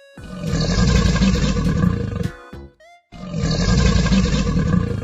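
Crocodile roar sound effect: a deep, rough roar played twice, each lasting about two seconds, with a brief gap between them, over light background music.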